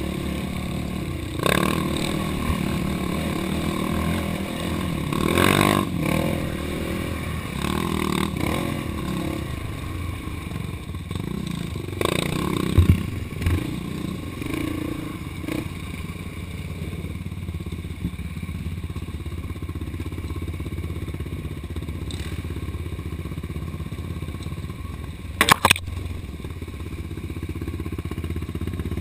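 Off-road vehicle engine running over a trail, its revs rising and falling, with the machine clattering over rough ground. There is a sharp knock about halfway through and a quick double knock near the end.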